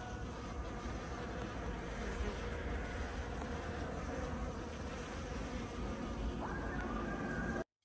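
Insects buzzing over a steady noisy background, cutting off suddenly near the end.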